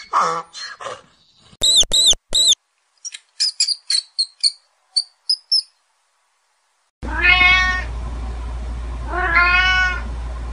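A domestic cat meowing twice, two long calls about two seconds apart, over a steady low hum. Before that comes a run of short, high-pitched squeaks and chirps, and at the very start the tail of another animal's calls.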